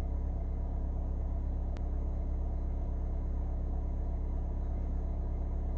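Mahindra Thar's engine idling steadily, heard from inside the cabin, with one light click about two seconds in.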